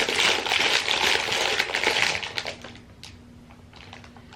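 Plastic snack packaging crinkling as it is handled: a dense crackle for about two and a half seconds, then only a few faint taps.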